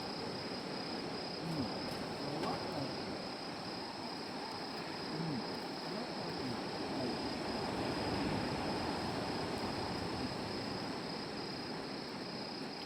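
Crickets or similar insects trilling in one steady high tone, over a dense crackling hiss with a few faint clicks, as from a campfire burning.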